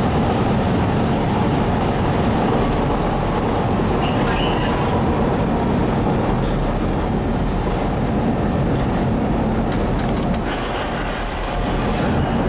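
Chicago L rapid-transit train running, heard from inside the car: a steady rumble of wheels on rail and motor noise as it pulls into a station, dipping briefly near the end.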